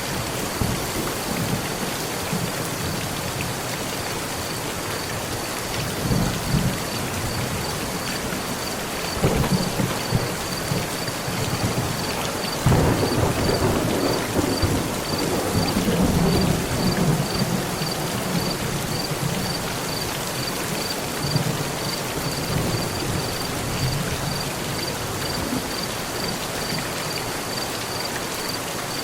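Steady heavy rain on a metal roof with rolling thunder: short low rumbles about six and nine seconds in, then a longer, louder roll from about thirteen to eighteen seconds.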